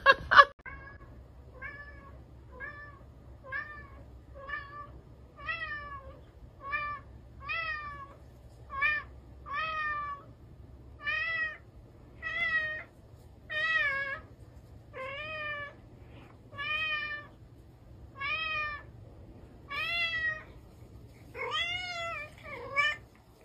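Black-and-white domestic cat meowing over and over, about one short meow a second, each rising then falling in pitch. Near the end the meows come closer together.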